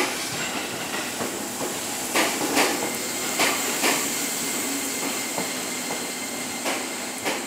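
Electric commuter train standing at a station platform, waiting to depart. It gives a steady hiss and hum, with a few short clicks and knocks scattered through.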